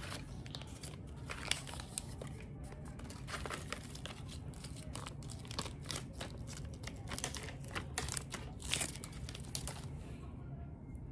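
Irregular crinkling and clicking of small plastic parts of a miniature toy fridge being handled and fitted together.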